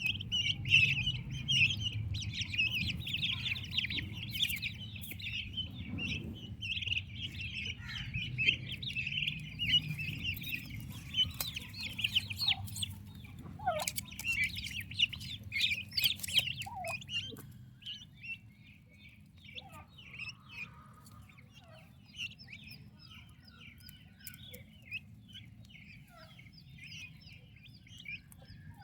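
Many turkey poults peeping together in a dense stream of short high chirps. The peeping is busiest in the first half and grows sparser and quieter a little past halfway.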